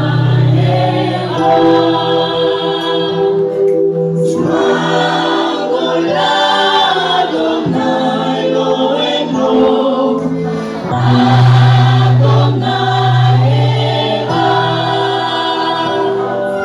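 Church choir singing a gospel song, several voices holding long sustained notes over a steady low bass.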